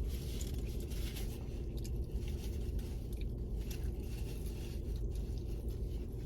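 A taco being bitten and chewed close to the microphone, with short crunching and crackling sounds scattered through, over a steady low hum.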